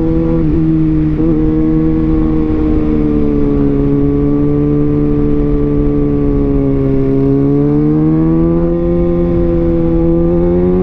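Kawasaki Ninja ZX-6R inline-four engine running under way, heard from the rider's position with wind noise on the microphone. The engine note eases down gradually, then rises again over the last few seconds as the throttle opens.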